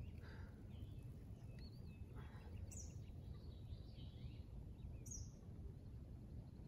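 Faint, steady low outdoor rumble with a few soft, high bird chirps scattered through it, and two sharper, quick high chirps, one near the middle and one about five seconds in.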